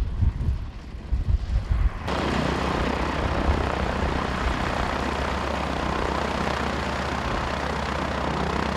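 Wind buffeting the microphone, then from about two seconds in a Boeing Stearman biplane's radial engine and propeller running steadily.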